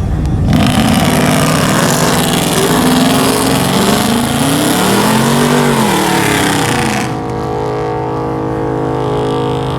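A vehicle engine revving loudly with a harsh exhaust rush, its pitch rising and falling. About seven seconds in the rush drops away and the engine settles to a steadier hum.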